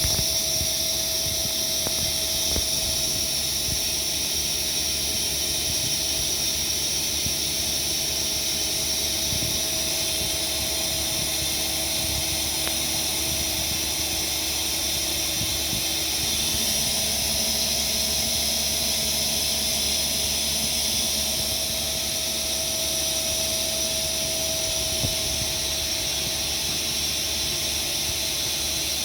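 Mazak QTN200M CNC lathe running, a steady machine hum over a dense hiss. About halfway through, one of its lower tones steps down in pitch.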